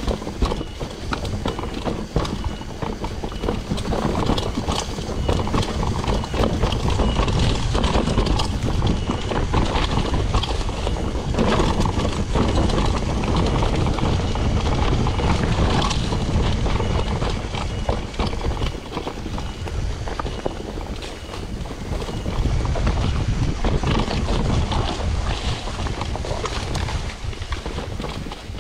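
Mountain bike riding over a rough dirt and rock trail: a continuous dense clatter of tyres on loose ground and rattling bike parts, over heavy rumble from wind buffeting the microphone.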